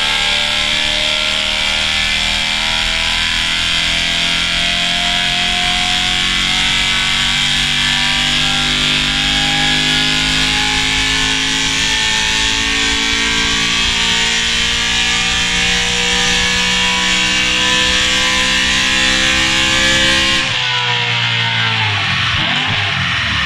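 BMW E92 M3's S65 V8, breathing through an ARMYTRIX valvetronic exhaust, running under full load on a chassis dyno, its revs climbing slowly and steadily through a long pull. Near the end the throttle closes and the revs drop away quickly.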